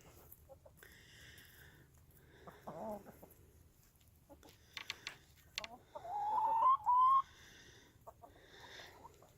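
Laying hens calling in the coop: a short call about three seconds in, a few sharp ticks, then a louder, drawn-out call in two parts a little past the middle.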